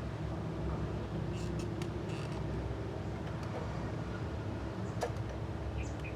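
Car engine running steadily at idle, with a few light metallic clicks and taps.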